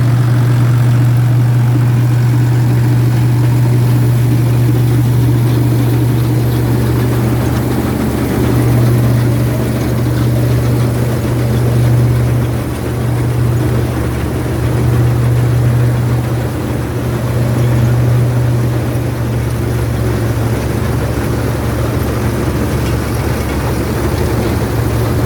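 Ford 3610 tractor's three-cylinder diesel engine running steadily while pulling and powering a straw reaper, with a deep, even hum that swells and dips slightly now and then.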